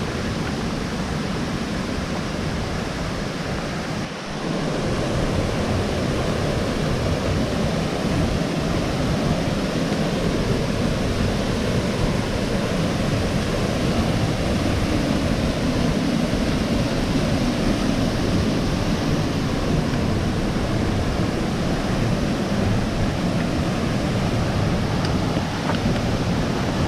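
Steady rush of a waterfall and cascading creek water. The level dips briefly about four seconds in, then runs on a little louder.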